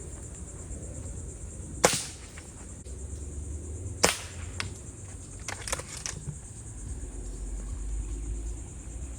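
Two sharp shots from a small gun, about two seconds apart, followed by a few fainter clicks. A steady high insect buzz runs underneath.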